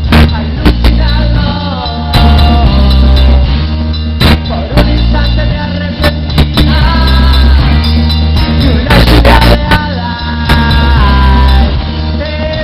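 Rock band playing live: drums hitting in a steady beat over a heavy bass line, with a melodic lead line that bends in pitch.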